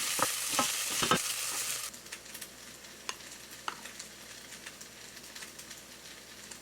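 Chicken and rice being stir-fried in a pan: loud sizzling with a spatula knocking and scraping. The sizzle cuts off abruptly about two seconds in, leaving scattered light taps and clicks.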